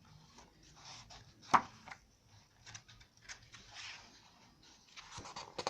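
Thick pages of a colouring book being turned and handled: soft swishes and rustles of heavy paper, with one sharp tap about a second and a half in.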